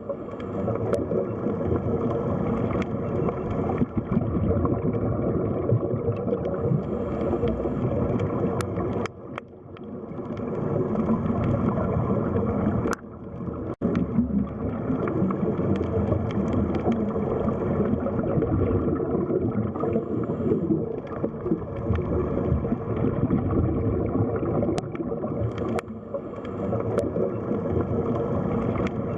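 Underwater sea ambience: a dense, muffled rush and gurgle of water, dropping away briefly twice.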